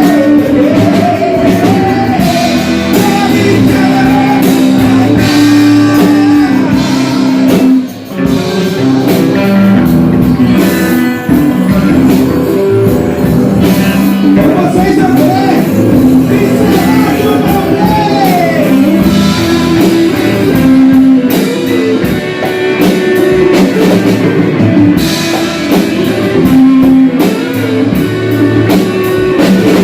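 Rock music with electric guitar, drums and bass, the guitar line bending in pitch, with a brief drop in level about eight seconds in.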